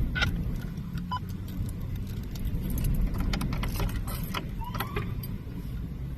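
A motor vehicle engine running steadily with a low hum, with scattered light metallic clinks and jingles over it.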